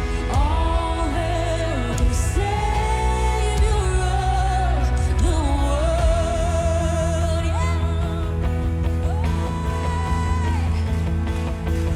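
Contemporary worship song performed by a singer and band: a sung melody with long held notes over full, steady band accompaniment.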